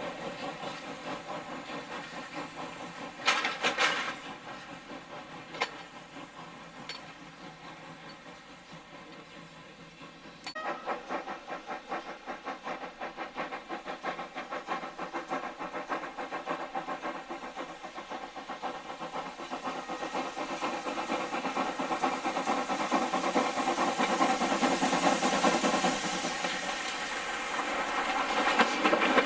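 Steam locomotive running close by, with a steady hiss of steam, a short loud burst of steam about three seconds in and a few sharp clicks. It grows steadily louder over the second half.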